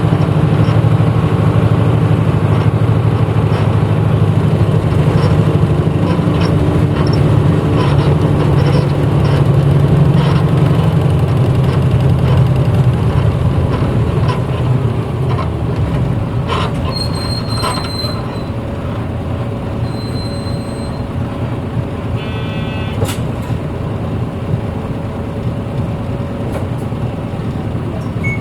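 Interior running sound of a 1994 Hino Blue Ribbon city bus on the move: the diesel engine hums strongly under load, then eases off about halfway through as the bus runs on with road and body noise. A few short high electronic tones and a click sound in the second half.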